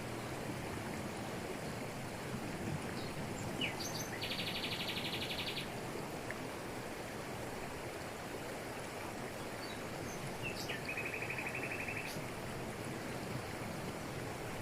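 Waterfall in tropical forest rushing steadily over rocks, with a bird giving a short rapid trill about four seconds in and another, lower trill about eleven seconds in.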